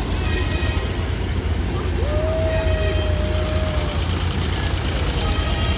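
Tractor engine running with a steady low rumble. About two seconds in, a single held tone sounds for about two seconds.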